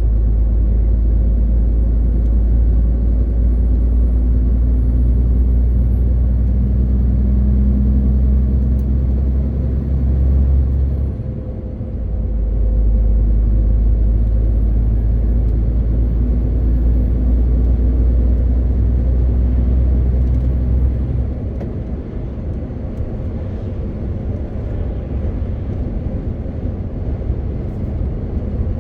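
MAN TGX 18.520 truck's straight-six diesel engine running under load while driving, with a faint high whine that rises and falls. About eleven seconds in the engine sound dips briefly and picks back up, and a little past twenty seconds it drops to a lower, quieter level.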